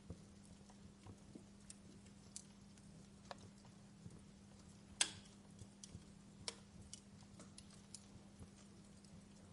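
Wood fire crackling, with irregular sharp pops and ticks; the loudest pop comes about halfway through.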